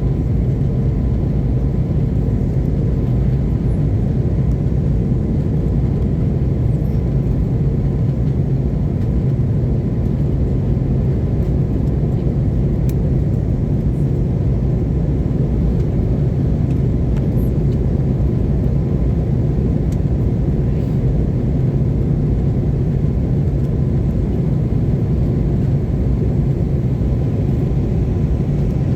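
Steady low engine and airflow drone inside the cabin of an Airbus A321neo airliner in flight, with a faint steady hum over it.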